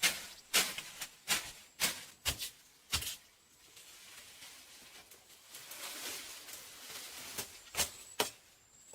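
Sharp knocks about twice a second for the first three seconds, then a soft steady hiss, with two more knocks near the end.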